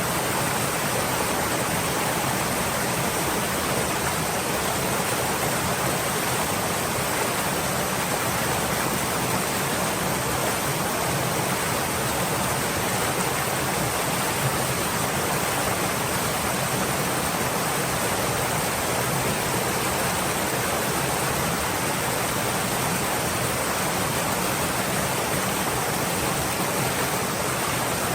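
Stream water flowing over rocks, a steady, even rushing without breaks.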